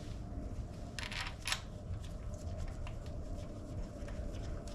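Light handling noises of parts and tools being worked by hand: scattered faint ticks and rustles, with two sharper clicks about a second and a second and a half in, over a low steady hum.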